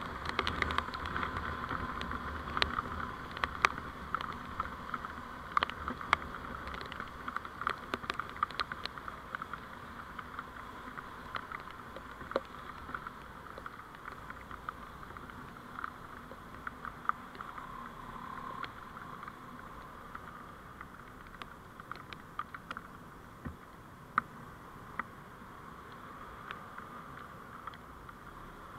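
Vehicle driving noise picked up by a dashcam: a steady hum and low rumble that slowly fade, with many small sharp clicks and crackles, dense at first and thinning out in the second half.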